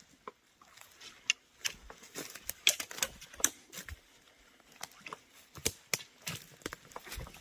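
Footsteps on a dry forest floor, twigs and litter crackling and snapping underfoot in an uneven run of sharp clicks.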